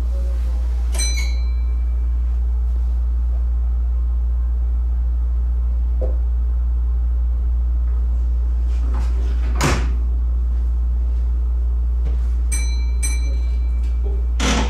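Steady low hum aboard a standing Kintetsu 80000 series 'Hinotori' electric train at a station platform. Over it come a short beep about a second in, a sharp knock near the middle, a quick run of short beeps and another sharp knock near the end.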